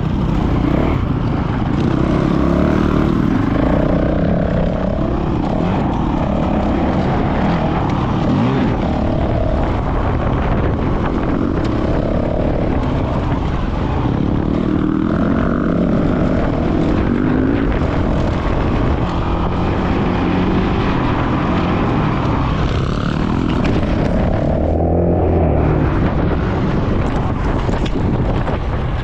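Dirt bike engine running hard at race pace, revving up and down over and over, with heavy wind rumble on the microphone.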